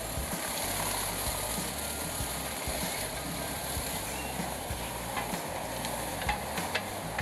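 Morbark 2755 wood chipper running steadily at work, with a few sharp knocks in its second half.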